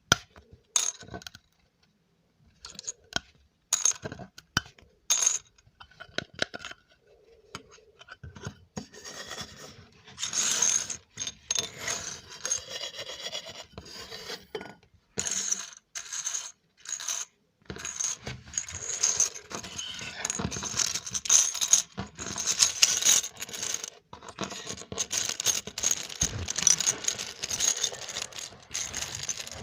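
Close-miked ASMR trigger sounds from small objects being handled: scattered sharp clicks and taps, then from about nine seconds in a steadier run of scratching and rubbing mixed with clicks.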